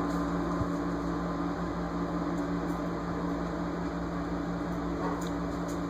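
Steady mechanical hum with a low droning tone, like a running fan or air-conditioning unit.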